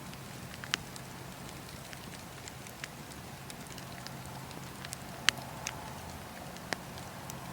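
Wood fire burning in a fireplace, crackling: a steady low hiss with scattered sharp pops, the loudest about five seconds in.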